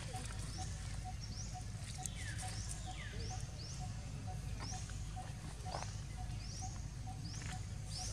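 Outdoor bird calls: a low piping note repeated steadily about two and a half times a second, short high rising chirps repeating, and a couple of descending whistled calls, over a low background rumble.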